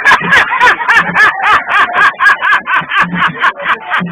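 Goofy meme sound effect: a rapid, high-pitched cartoonish laugh of short rising-and-falling yelps, about five a second, each with a sharp click.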